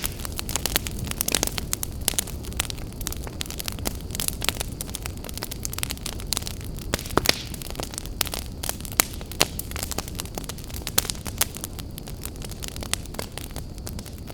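Open wood fire burning in a fireplace: a steady low rumble of flames with frequent sharp, irregular crackles and pops.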